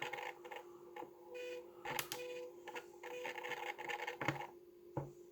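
Small clicks and handling noises of buttons and a knob being worked on a small radio transceiver while its settings are reset, with several short beeps over a steady hum.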